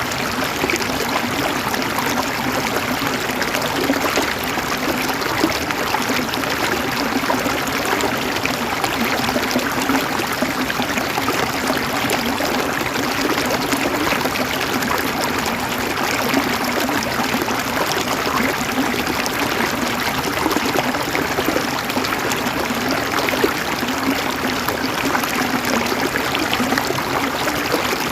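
River water flowing steadily over stones, a continuous babbling and trickling with no pauses or changes.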